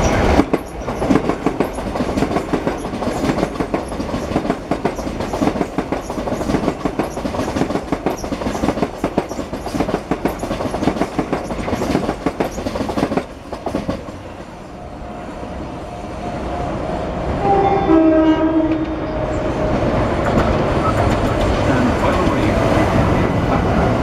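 Southern Class 377 electric trains running through the station. Wheels clatter densely over the rails for the first half, then drop away about 13 seconds in. A short horn blast sounds near 18 seconds in, and another train's running noise then grows louder as it comes alongside the platform.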